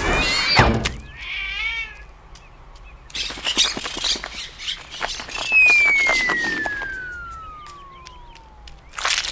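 Edited meme sound effects. A brief warbling cry comes first, then a clattering run of clicks. After that a long whistle falls steadily in pitch for about three seconds and is cut off by a sudden crash near the end.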